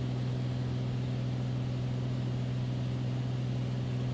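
Beechcraft Bonanza's piston engine and propeller droning steadily in level cruise, heard from inside the cockpit as a constant low hum.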